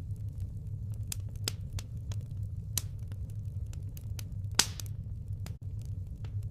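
Firewood burning, with irregular sharp crackles and pops over a steady low rumble of the fire; one louder pop comes about four and a half seconds in.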